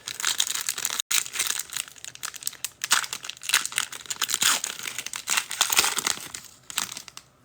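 A foil trading-card pack being torn open and its wrapper crinkled, in an irregular series of rustles and tears, with a brief cut-out in the sound about a second in.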